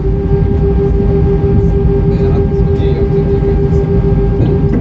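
Airbus A320-232's IAE V2500 jet engines heard inside the cabin from a window seat: a loud, steady rumble with a constant whine held at one pitch.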